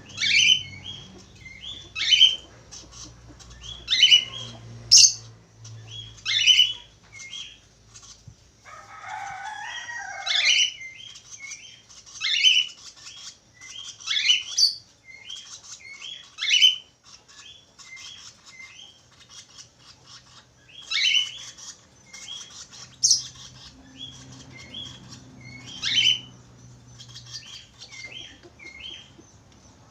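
Budgerigar calls: sharp, falling chirps repeated every one to two seconds, with softer twittering chatter between them, and a rougher, lower burst about nine seconds in.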